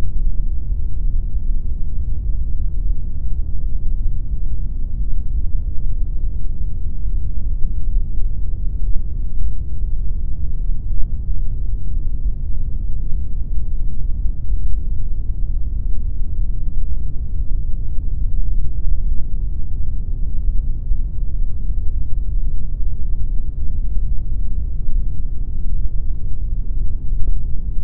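Steady, unchanging pink noise: a deep, even rush with most of its energy in the low end and almost nothing in the high treble.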